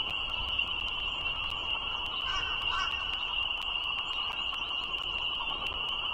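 Steady high-pitched chorus of frogs calling together without a break, over a low rumble and a faint run of even clicks.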